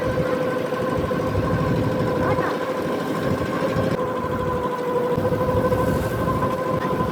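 Fishing boat's engine running steadily, a constant hum with a steady mid-pitched drone over a rough low rumble.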